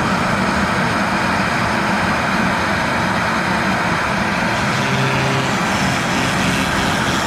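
CNC router spindle running with a 1/4-inch O-flute bit as a carving program starts: a loud, steady whir.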